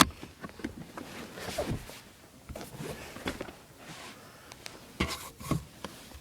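Rustling and handling noise inside a car's cabin, with a few light clicks and knocks, the strongest about five seconds in, as the rear seat console and cup holders are handled.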